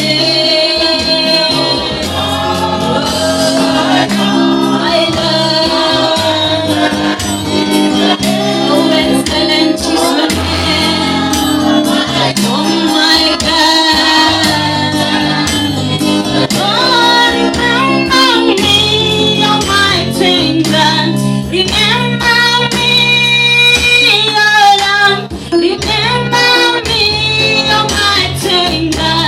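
Gospel praise and worship music: a group of voices singing together over instrumental accompaniment with sustained low notes.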